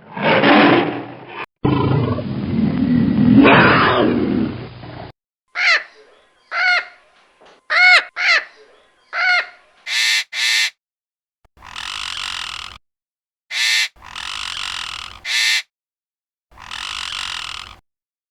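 A run of recorded animal calls in turn: long, loud, rough calls for the first five seconds, then about eight short pitched calls that each rise and fall, then four breathy, noisy bursts, each about a second long.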